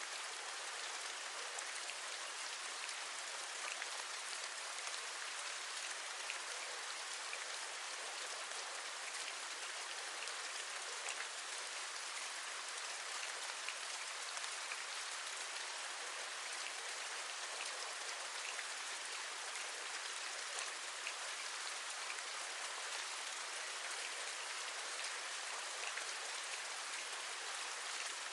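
Steady rain falling, an even hiss with scattered light ticks of individual drops.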